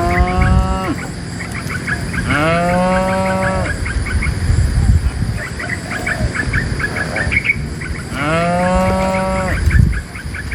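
Cows mooing: three long moos, the first already sounding at the start, the next about two seconds in, the last near the end. Short high chirps and ticks run between the calls.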